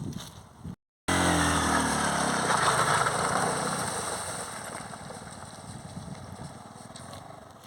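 SYM motorbike engine running, its pitch falling over the first two seconds. A rushing noise rises and falls with it, then both fade. The sound starts abruptly about a second in.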